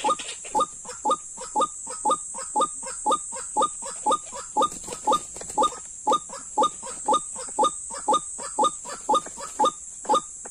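White-breasted waterhen (dahuk) calling: a steady run of short, harsh notes, about two a second, over a steady high hiss.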